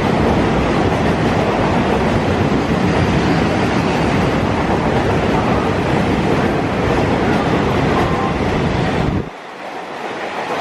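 Indian Railways train passing close at speed: a loud, steady rumble of wheels on rail with wind noise, dropping off sharply about nine seconds in.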